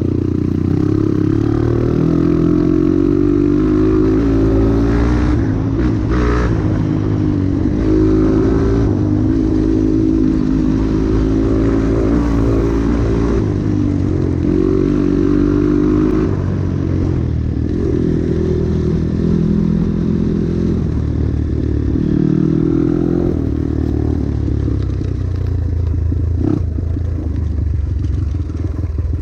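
Trail motorcycle engine revving up and easing off again and again, its pitch climbing and falling with the throttle and gear changes. A few sharp knocks and clatter come from the bike over rough ground.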